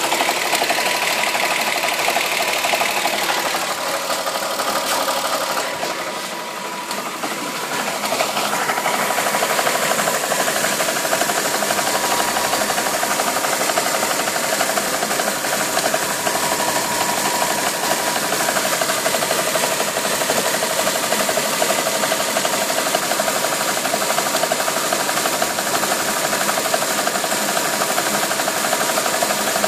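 Volkswagen VR6 engine running with a continuous rapid ticking rattle, an abnormal noise that the owner suspects comes from tired hydraulic lifters, a worn timing-chain tensioner or worn chain guides.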